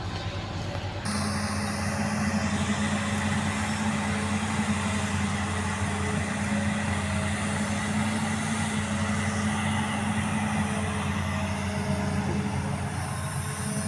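Excavator's diesel engine running steadily, stepping up louder about a second in.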